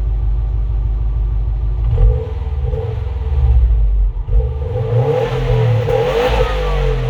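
Stock exhaust of a 2020 Subaru WRX STI's turbocharged flat-four boxer engine, idling and then revved: short rev blips about two and three and a half seconds in, then a longer rev that rises and falls back near the end.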